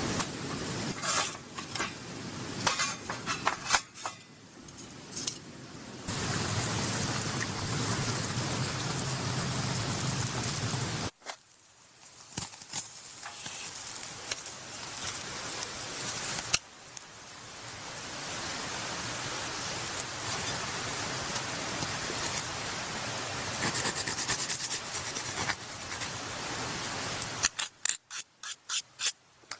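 Kouné (fatty beef brisket) sizzling over a charcoal grill, a steady hiss that changes level at several cuts, with a few sharp clicks near the start and near the end.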